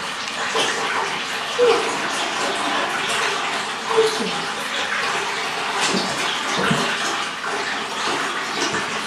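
Bath tap running, water pouring steadily into the tub, with a few short sharper sounds over it about one and a half and four seconds in.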